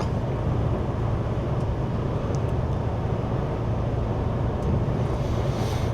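Steady cab noise of a semi-truck cruising at about 80 km/h: a constant low engine drone under road and wind noise.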